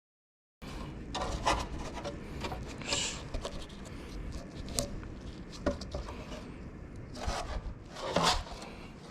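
Irregular rubbing and scraping handling noises with scattered sharp clicks, starting suddenly about half a second in.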